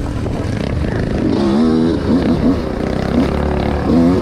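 Two-stroke dirt bike engine running, its revs rising and falling from about a second in.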